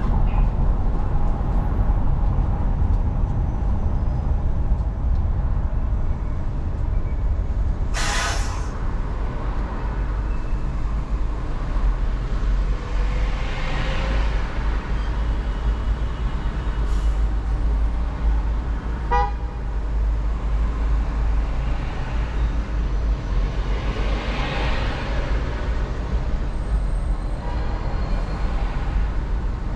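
Car driving through city traffic: a steady low road and engine rumble, vehicles swishing past twice, and two short horn toots, the first about a quarter of the way in and the second a little past the middle.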